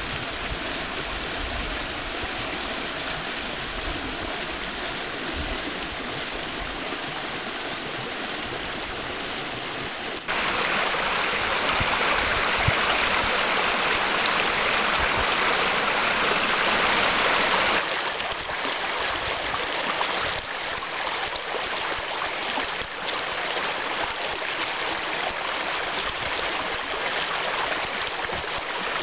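Spring meltwater of a small waterfall and stream rushing and splashing steadily. The rush gets abruptly louder about ten seconds in and eases somewhat about eight seconds later.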